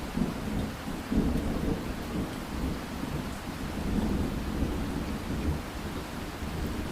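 Thunder rolling over steady rain: a low rumble that swells just before the start and keeps rolling throughout, with loudest surges about a second in and around four seconds in, over an even hiss of rainfall.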